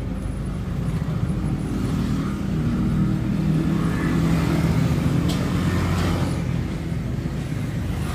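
A motor vehicle's engine running, growing louder through the middle few seconds and then easing off again.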